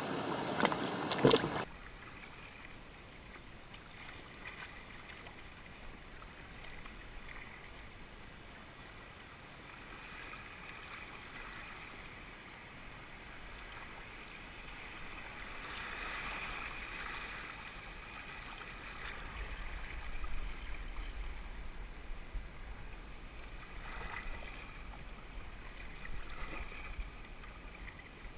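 A few handling knocks, then a kayak being paddled down a river: a steady wash of moving water with occasional soft paddle splashes.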